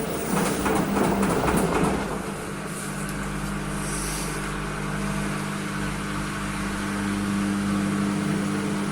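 Washing machine running: water churning and sloshing in the drum for about the first two seconds, then a steady motor hum.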